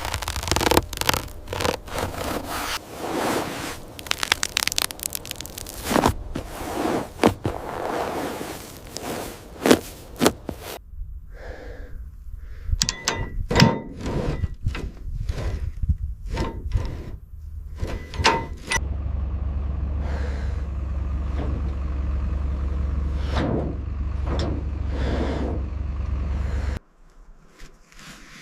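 A run of scrapes, knocks and thuds, dense for the first ten seconds or so and sparser after that. From about nineteen seconds a steady low hum runs under them and cuts off suddenly about a second and a half before the end.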